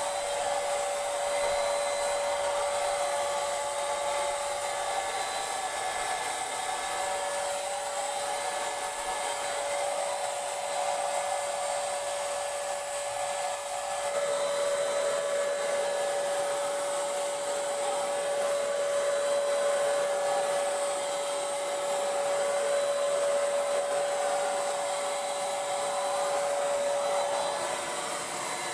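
Paint Zoom handheld electric paint sprayer running steadily: a constant motor whine over an airy hiss, with a small change in tone about halfway through.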